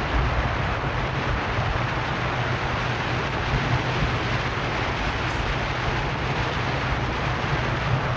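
A car driving along a road: steady tyre and wind noise over a low rumble.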